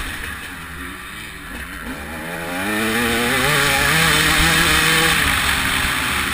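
TM 300 two-stroke motocross engine, a 300 cc single, heard from the bike: its revs drop off the throttle, then climb from about two and a half seconds in and hold high as it pulls hard, with a rush of noise over the top.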